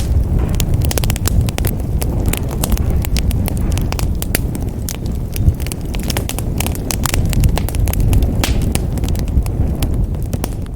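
Wood fire crackling in a fireplace: many sharp, irregular snaps and pops over a steady low rumble of burning flames.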